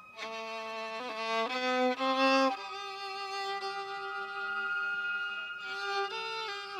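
Solo violin playing a slow melody: a few short notes, then one note held for about three seconds, then further changes of note near the end.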